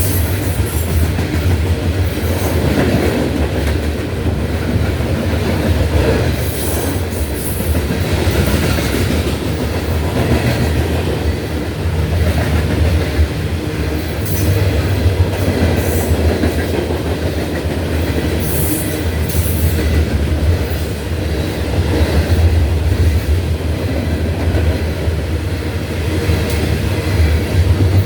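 Loaded coal train's hopper cars rolling past: a steady heavy rumble with the clickety-clack of wheels over rail joints, and a few brief high wheel squeals.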